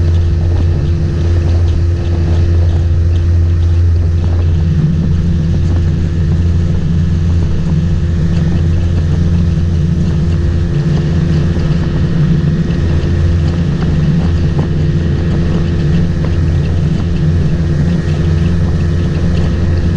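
Motorboat engine running steadily under way, a loud, even drone.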